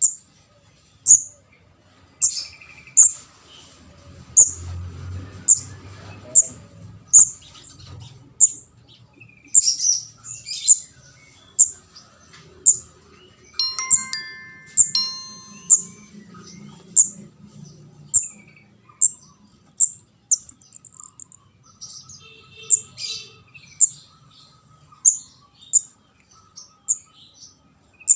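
Lure call of a juvenile kemade jawa (ndas abang): short, high-pitched chirps repeated about once a second. A brief chime-like tone sounds about halfway through.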